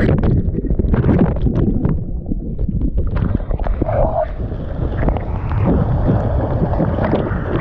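Rushing water and wind buffeting the camera microphone, loud and rumbling, with many short knocks and bumps against the camera.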